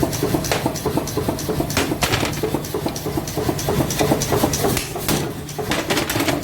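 Rapid, repeated hammer blows on metal during forging, over a steady machine hum.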